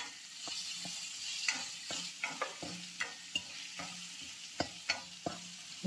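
Mango pieces and green chillies sautéing in hot oil in a pan, sizzling steadily while a spoon stirs them, with irregular clicks and scrapes of the spoon against the pan.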